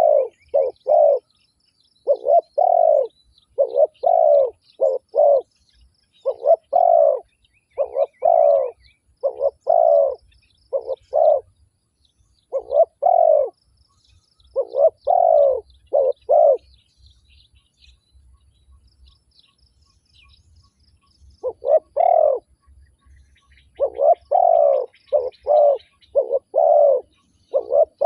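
Spotted dove cooing in repeated phrases of three or four low notes, with a pause of about five seconds in the latter half. Faint high chirps of small birds run behind it.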